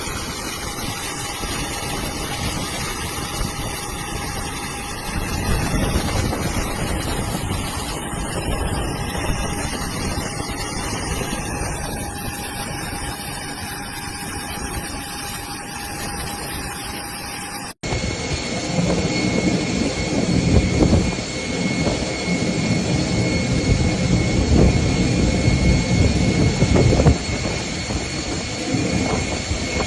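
Heavy rain and strong wind make a steady rushing roar. About 18 seconds in, it cuts abruptly to a louder stretch where the wind comes in irregular low, rumbling gusts.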